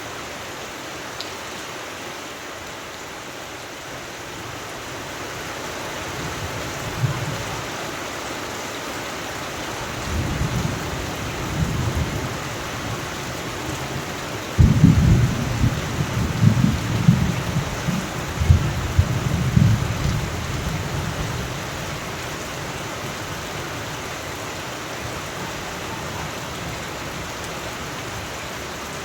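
Steady rain falling, with thunder rumbling in: faint rolls at first, then a sudden loud crack about halfway through that rolls on for several seconds before fading back to rain alone.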